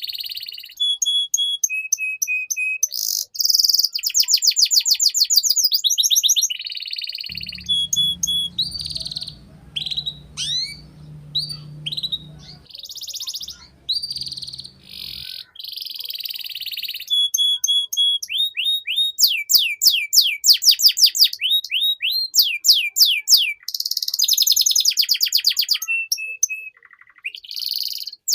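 Domestic canary singing a long, varied song: fast rolling trills of rapid repeated sweeps alternating with short held whistled notes and chattering phrases.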